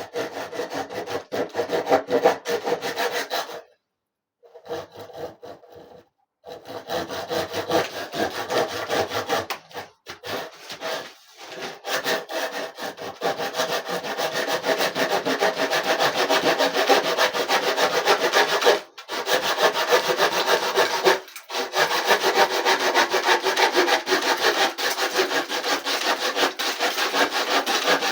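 Saw cutting through wood in continuous rasping strokes. It pauses briefly about 4 and 6 seconds in and breaks off for moments a few more times.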